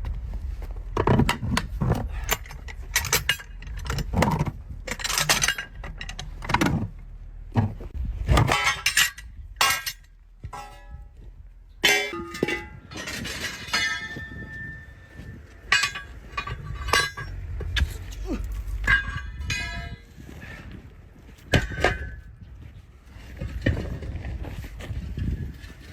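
Tools knocking and clanking on metal during truck tyre work: a string of irregular impacts, some with a brief ringing tone.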